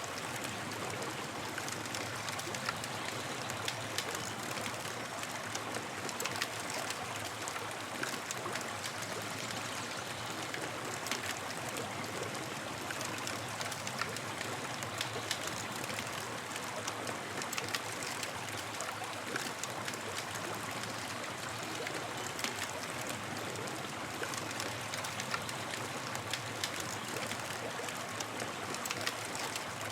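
Campfire crackling over a steady hiss, with many small irregular pops.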